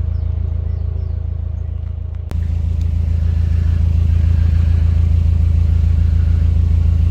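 Narrowboat's diesel engine running steadily with a low, even drum. A click about two seconds in, after which the engine sounds louder.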